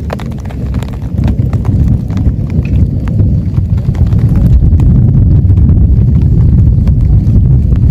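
Heavy rain drumming on a tent: a dense patter of drops over a deep, steady rush. It grows louder about a second in and stays heavy.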